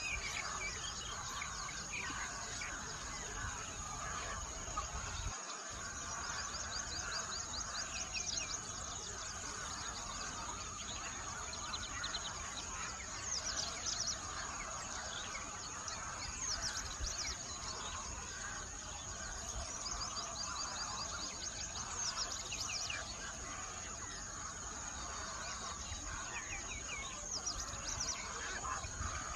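Small songbirds chirping in quick, repeated trills over a steady high-pitched drone and a constant background hiss.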